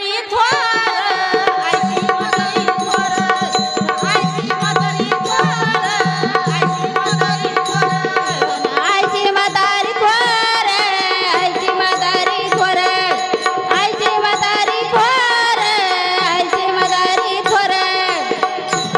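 Devotional bhajan music: tabla playing a steady rhythm under a gliding melody.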